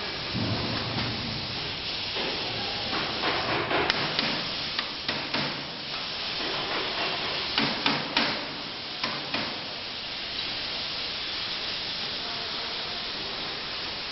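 CNC plasma cutting machine running, a steady hiss throughout, with scattered sharp clicks and knocks in the middle.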